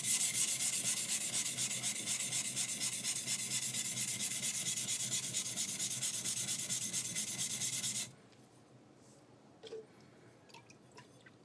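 High-speed steel skiving knife rubbed back and forth on a wet whetstone in quick, even strokes, a gritty scraping as the blade is ground flat. The strokes stop suddenly about eight seconds in, and a few faint clicks follow.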